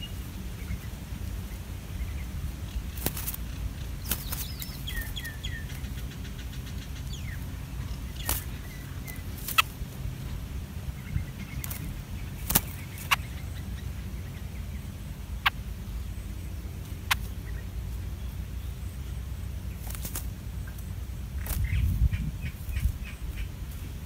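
A few short runs of faint, high bird chirps over a steady low rumble, with sharp single clicks scattered throughout, the loudest a little after halfway.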